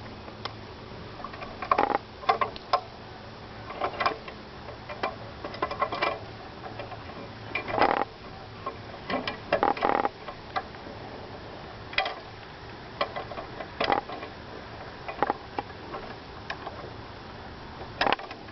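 A bicycle rattling and clicking as it rides over a bumpy gravel trail, with irregular knocks and clatters every second or two.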